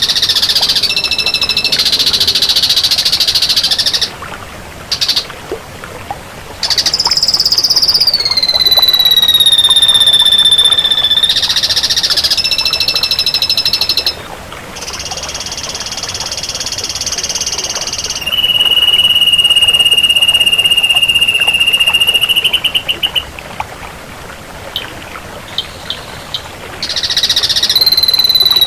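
Ashy drongo singing: long, clear whistled notes held for several seconds, some sliding down in pitch, alternating with harsh buzzy phrases. One long low whistle ends in a rapid trill, followed by a quieter spell of scattered ticks before the buzzing and whistling resume near the end.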